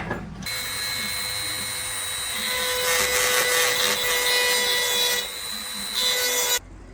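A handheld power tool running against a part: a steady motor whine under a hissing scrub. It bears down harder about two seconds in, eases briefly near five seconds, and stops abruptly near the end.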